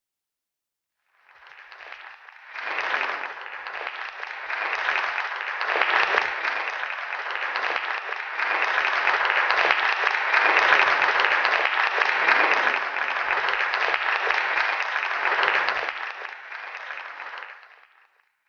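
Applause from a crowd, starting about a second in, building and holding steady, then dying away near the end.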